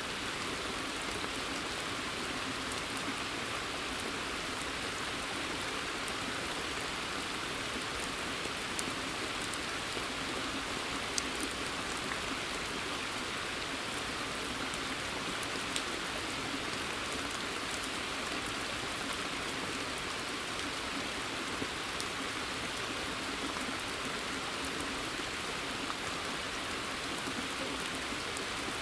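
Steady rain falling in a forest, an even hiss with a few sharper drips ticking through it.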